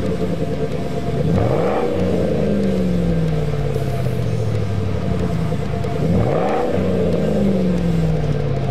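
Lincoln Navigator's exhaust through an aftermarket muffler, blipped twice: the engine note climbs quickly about a second in and again about six seconds in, each time sinking slowly back toward idle.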